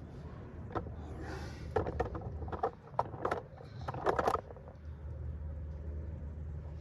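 A run of sharp clicks and knocks with a brief scraping rustle, like metal parts and tools being handled, over a low steady hum.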